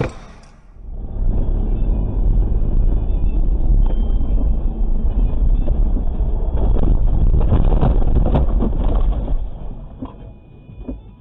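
Car driving: a steady rumble of engine and road noise, fading away near the end.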